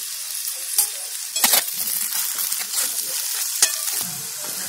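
Okra frying in oil in a kadai, sizzling steadily, while a metal spatula stirs in the spice powders, scraping the pan with a few sharp knocks against its side.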